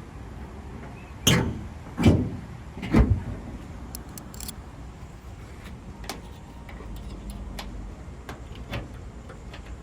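Three heavy thumps a little under a second apart, followed by a few light clicks, over a steady low rumble.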